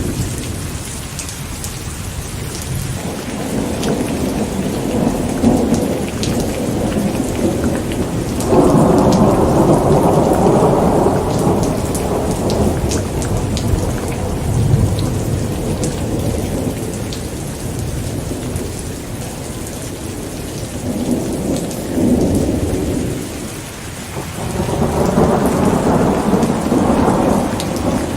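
Steady rain falling with thunder rumbling. The rumbles rise and fade in long waves, loudest about a third of the way in and again near the end.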